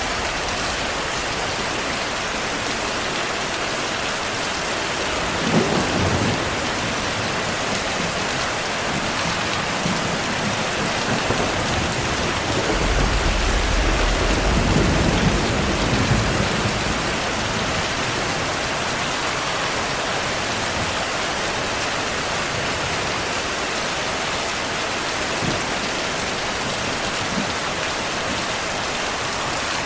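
Steady heavy rain with thunder: a sharp crack about six seconds in, then a longer, deeper rumble of thunder a few seconds later, with small distant cracks near the end.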